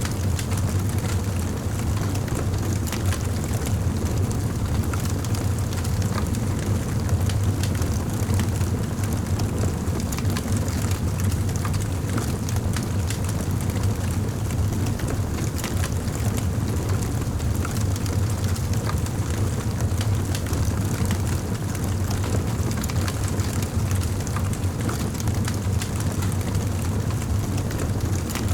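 Wood fire in a fireplace crackling, with many small pops over a steady low rumble.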